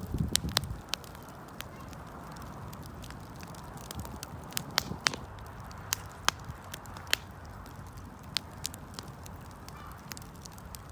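Wood campfire crackling, with irregular sharp pops and snaps over a steady hiss of burning. A low rumble sounds in the first second.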